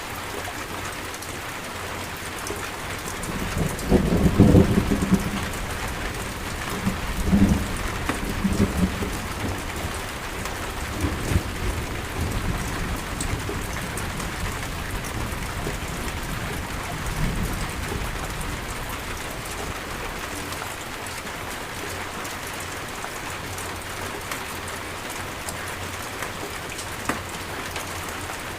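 Steady heavy rain with thunder rumbling: a loud roll about four seconds in, then weaker rolls around eight, eleven and seventeen seconds.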